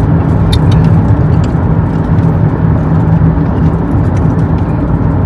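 Steady low drone of engine and tyre noise inside a car moving along the highway.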